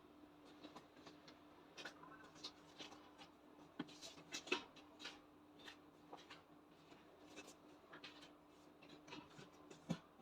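Near silence with scattered faint taps, clicks and rustles of handling, a slightly louder tap about four and a half seconds in and another near the end, over a steady faint hum.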